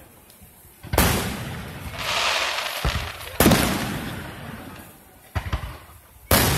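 Aerial fireworks shells bursting: three loud booms about two and a half seconds apart, each trailing off in a long rolling echo, with a few short sharp cracks between the last two.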